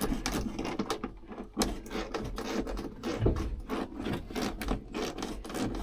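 Irregular clicks, knocks and rubbing from interior parts being handled and fitted, with a faint low hum underneath.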